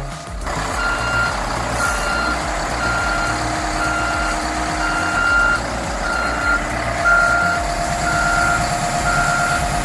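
Heavy machine's back-up alarm beeping steadily, about once a second, over its running diesel engine while it reverses.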